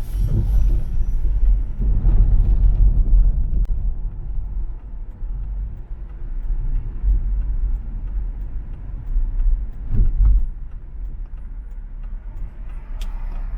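Car driving on an urban expressway: a steady low road and engine rumble that swells louder a couple of times.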